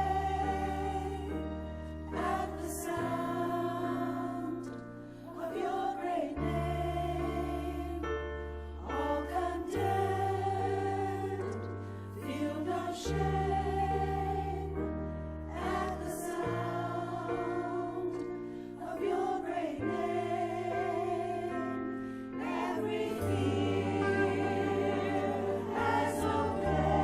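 A group of voices singing a hymn together over instrumental accompaniment that holds long, low chords, changing every few seconds.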